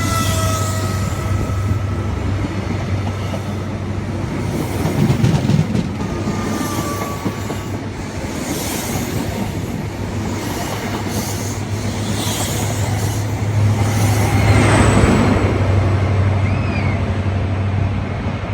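A train moving through the station with a steady low engine hum, wheels rattling over the track, and a few short high wheel squeals.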